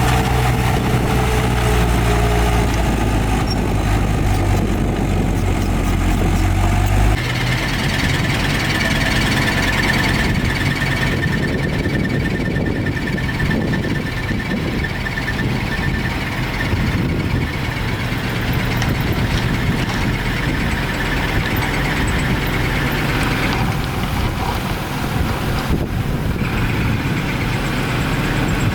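Heavy diesel earthmoving machinery running: a steady low engine drone for about the first seven seconds, then, after a sudden change, a rougher engine rumble with a steady high whine over it.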